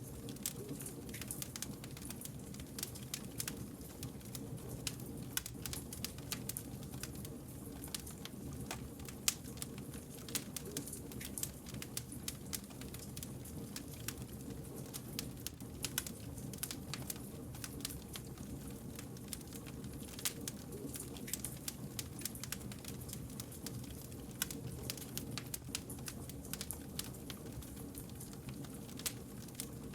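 Wood fire crackling, with frequent sharp pops and snaps over a low steady rumble of burning logs.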